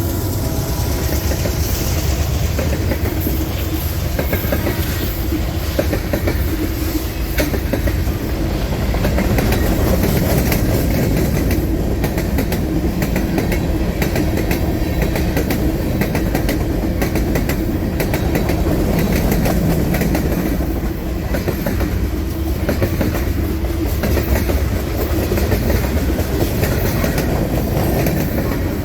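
Freight cars of a long mixed manifest train rolling past: a loud, steady rumble of steel wheels on the rails with a clickety-clack of wheels over the rail joints.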